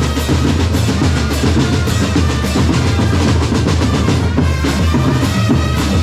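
Drum corps playing loudly without a break: bass drums and snare drums beating a fast, even rhythm, with a melody line on top.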